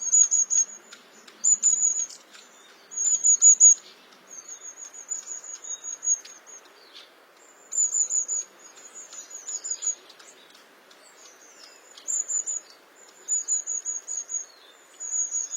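Long-tailed tit calling: short, rapid series of very high, thin notes, repeated every second or two, with a few brief downward-slurred notes in between.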